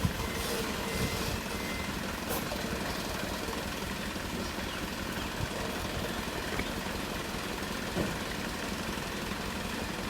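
Hino Dutro dump truck's diesel engine running steadily, with a few short sharp knocks over it near the start and about eight seconds in.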